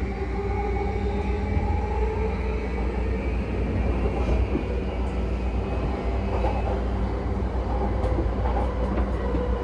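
JR East E235-0 series electric train running, heard from motor car MoHa E235-31: a steady low rumble of wheels and running gear, with several traction-motor tones that drift slowly in pitch.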